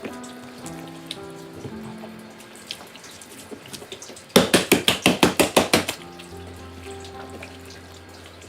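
Background music over running water from a tap. About halfway through comes a quick run of about a dozen loud, sharp strokes, some seven a second, lasting under two seconds.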